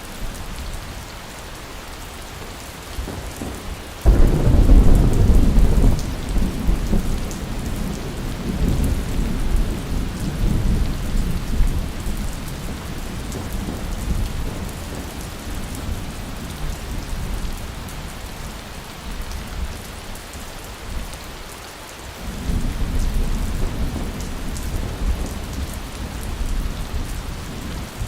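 Steady heavy rain with thunder: a loud rumble breaks in suddenly early on and rolls away over several seconds, and a second, softer rumble rolls in near the end.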